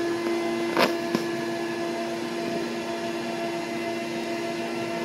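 A steady mechanical hum, with two short knocks about a second in.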